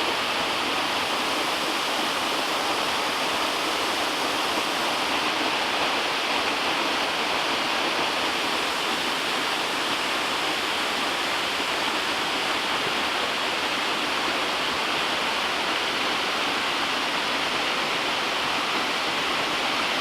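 A waterfall rushing steadily, a constant loud roar of falling water with no breaks.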